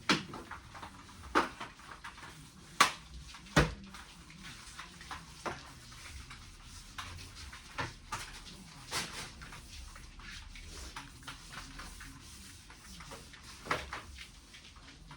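Scattered knocks and clicks in a small room, a few of them sharp, the loudest about three and a half seconds in, with no machine running.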